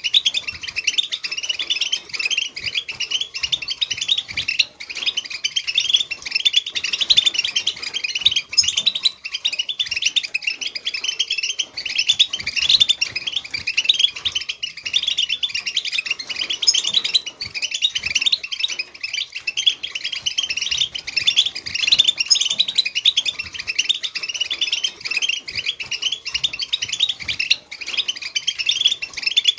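Several European goldfinches twittering together: a dense, continuous chatter of rapid high chirps and trills.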